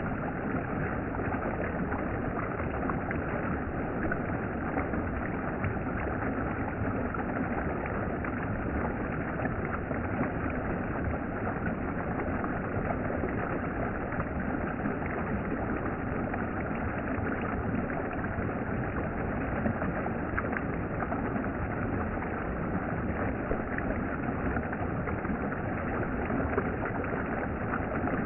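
Steady rushing of a valley stream's running water, an even noise with no distinct splashes or breaks.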